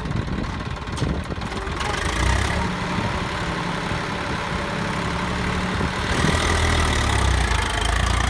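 Eicher 333 tractor's diesel engine running steadily. It grows louder about two seconds in and heavier again near six seconds.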